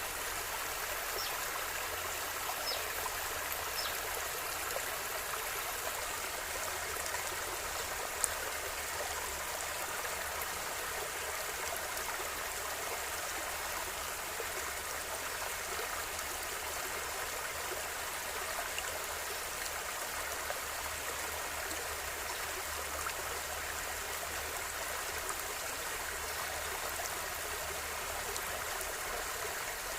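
River water flowing and splashing steadily over rocks, an even rushing with small trickles and a brief click about eight seconds in.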